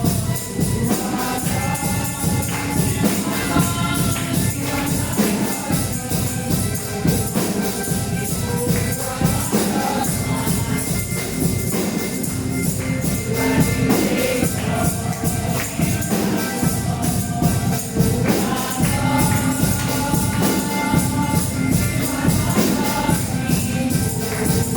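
Church praise music: a tambourine shaking a fast, steady beat over bass-heavy backing, with voices singing.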